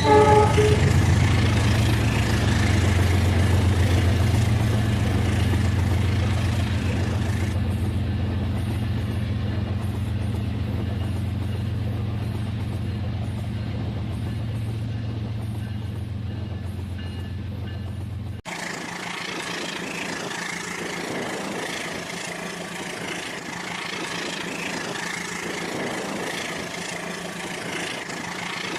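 Rail King battery-powered toy train running, with a steady low motor hum. A brief pitched tone sounds at the start. About 18 seconds in the hum cuts off abruptly and a lighter, noisier running sound follows.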